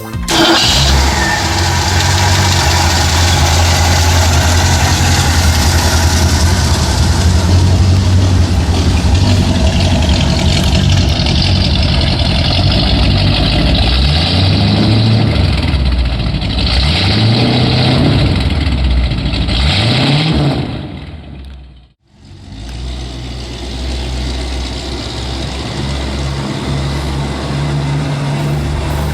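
1977 Ford Mustang II's 302 cubic-inch V8 idling steadily, then revved four times in the middle, each rev rising and falling back to idle. After a brief break it idles again.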